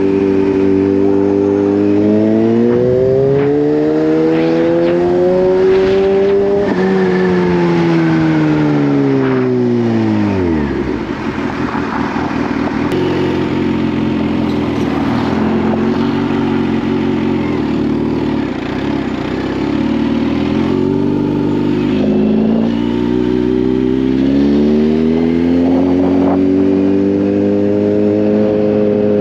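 Kawasaki Z H2's supercharged 998 cc inline-four engine on the move: the engine note climbs as the bike accelerates, then falls away on deceleration about seven seconds in. It runs at low revs for several seconds and builds up again over the last several seconds.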